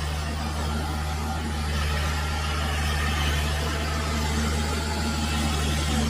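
Tractor diesel engine running steadily at a constant speed, a low even hum that gets slightly louder about two seconds in.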